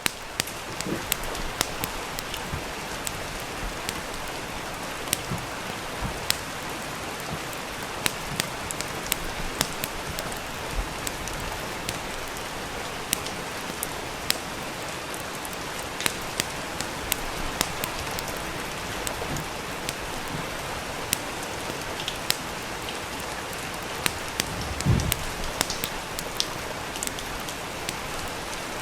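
Steady rain with a wood fire crackling, sharp pops scattered irregularly over the even hiss of the rain, and one louder low thump near the end.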